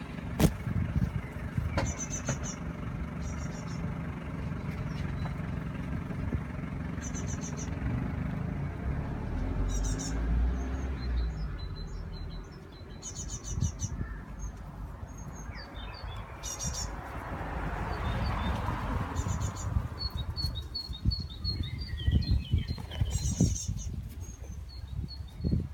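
A young bird chirping: short, high chirps every second or two, with a quick run of notes near the end. A steady low rumble runs underneath.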